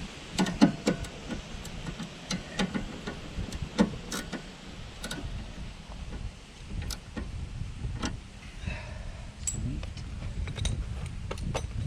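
Metal hand tools clinking: an irregular scatter of sharp metallic clicks and taps, as an 18 mm socket and wrench are handled and used.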